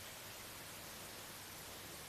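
Steady rain falling in a forest: an even, unbroken hiss.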